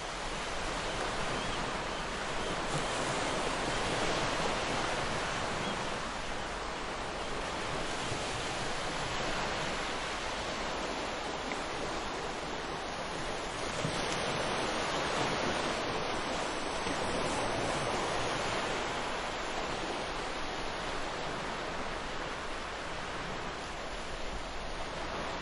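Ocean surf: a steady rush of waves washing and breaking, swelling and easing slowly every several seconds.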